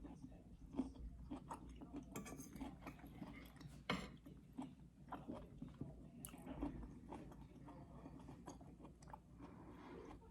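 Close-up chewing and biting of food, with irregular small wet clicks and crunches and one louder crack about four seconds in.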